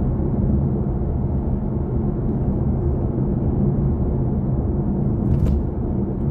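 Steady road and tyre rumble inside the cabin of a BMW i4 M50 electric car while driving, with a faint hum from the drivetrain and no engine sound. A small click about five seconds in.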